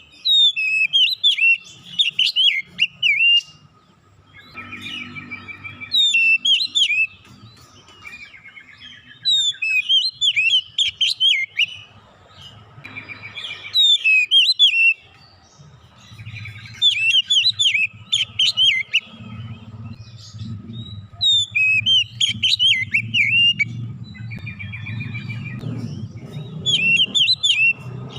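Oriental magpie-robin (kacer) singing loud, rapid phrases of varied whistles and twitters, mixing in mimicked notes, a phrase about every three to four seconds. A faint low hum runs underneath and grows louder near the end.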